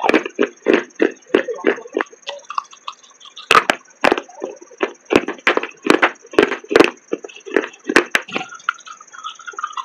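Baked clay pot chunks being crunched between the teeth in a steady run of sharp crunches, about two to three a second, pausing briefly twice.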